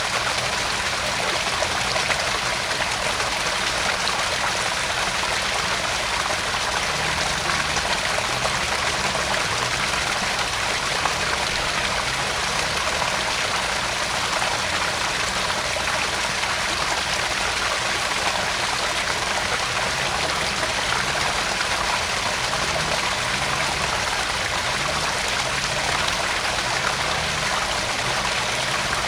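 Small garden pond waterfall: water spilling and splashing steadily into the pond, a continuous even rush with trickling.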